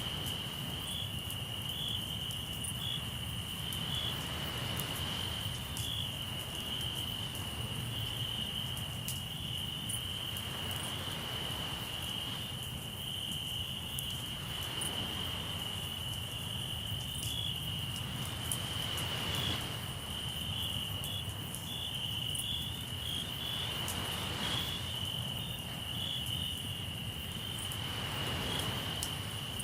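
Crickets chirping steadily in a continuous high trill, over the wash of waves coming in every four to five seconds and the faint crackle of a campfire.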